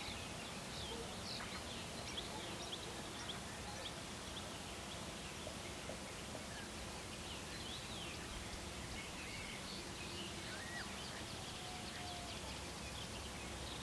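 Songbirds chirping over a steady outdoor background hiss: many short, high calls scattered throughout.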